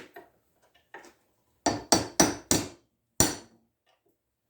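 Hammer blows on a punch driving out the thin leftover metal of a shell mill's R8 hub held in a vise: a few light taps, then four sharp strikes in quick succession and one more. The metal is breaking away.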